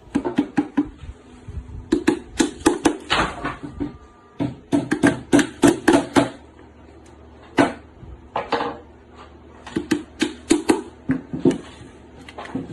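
Hammer striking nails into 10 mm plywood as a breeding box is nailed together, in quick bursts of several blows with pauses between.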